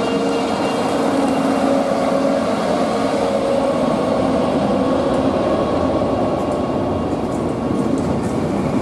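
A train running along the station tracks: steady rolling noise with a faint, held whine over it.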